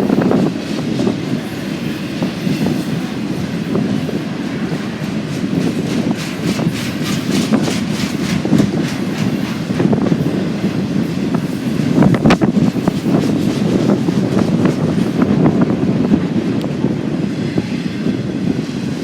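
Freight train rolling past, its steel wheels clicking in a steady rhythm over the rail joints, with a low rumble underneath and one sharper clack about twelve seconds in.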